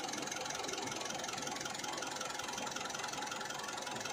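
Mitsubishi Pajero engine idling steadily at operating temperature, heard close up in the open engine bay.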